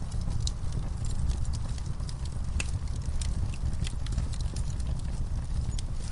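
Wood fire in a fire pit crackling and popping: irregular sharp snaps and pops from burning logs and coals over a steady low rumble.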